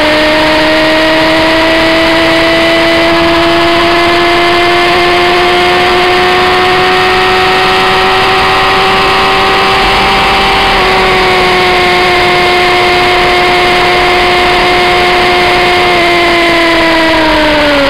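Suzuki GSX-R 600 inline-four engine running hard at high revs in top gear at about 200 km/h, its note creeping slowly upward as speed builds, over a heavy rush of wind. Near the end the pitch drops as the throttle is eased off.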